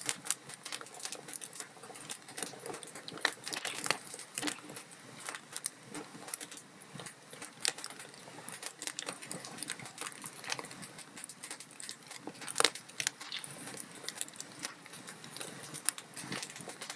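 Log fire in a fireplace crackling, with irregular sharp pops and snaps of burning wood over a soft steady hiss; one pop stands out loudest about two-thirds of the way through.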